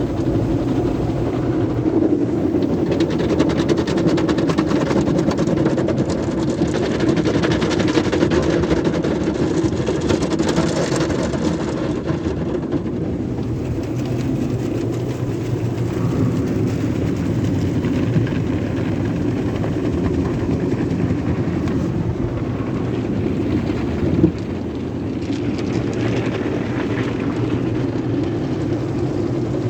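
Sonny's tunnel car wash equipment running: a steady machine hum under a wash of water and brush noise, with swells of hiss twice and a single knock a little past two-thirds of the way through.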